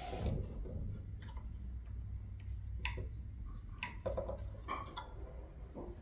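Light, irregular clicks and ticks of small parts being handled and fitted as the canopy is put back on a model boat, over a low steady hum.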